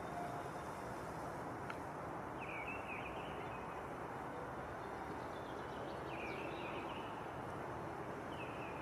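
A bird calling in short chirping phrases three times, about three seconds apart, over a steady outdoor background hiss.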